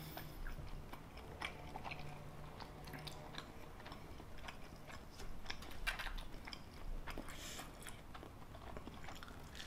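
Close-miked eating of macaroni and cheese: soft, irregular wet chewing clicks and smacks from the mouth.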